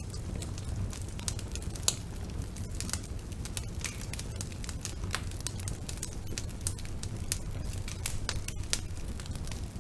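Wood fire burning in a fireplace: irregular crackling and snapping of the burning logs over a steady low rumble, with one louder pop about two seconds in.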